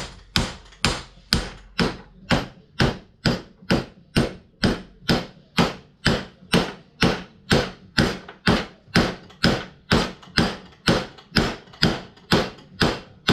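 Steady hammer blows, about three a second, on an impact socket used as a driver to punch a packed bearing onto a mower deck spindle shaft. The bearing is a tight fit on the shaft.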